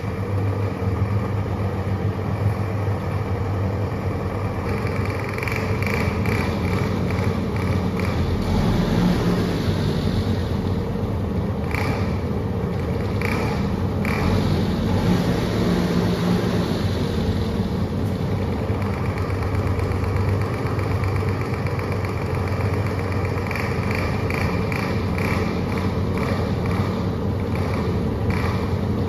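Small scooter engine catching and then running steadily, with slight rises in engine speed now and then.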